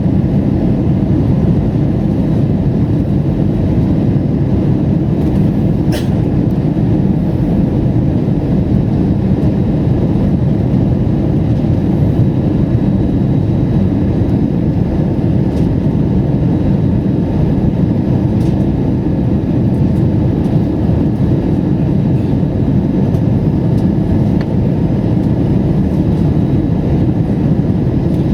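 Steady rumble of an airliner cabin: jet engine and airflow noise heard from inside, even and unchanging, with a faint click about six seconds in.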